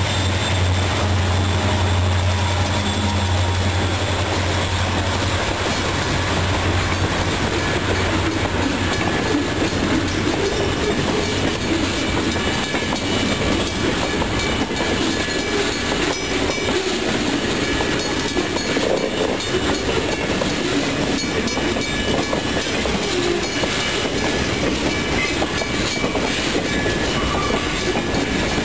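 A train passing close by. A diesel locomotive's low engine drone fades over the first several seconds, then the rail cars roll past with their wheels clacking over the rail joints.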